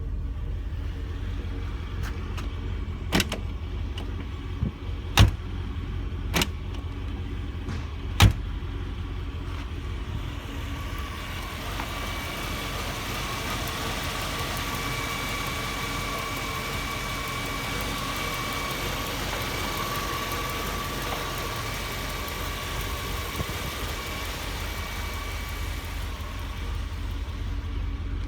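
Mercedes 380 SL's 3.8-litre V8 idling steadily after a cold start, with several sharp knocks in the first eight seconds. From about ten seconds in, a steady hiss with a faint high whine joins the idle.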